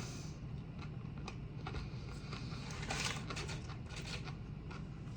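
Close-miked eating sounds: soft chewing and mouth clicks, with a brief louder rustle or crunch about three seconds in.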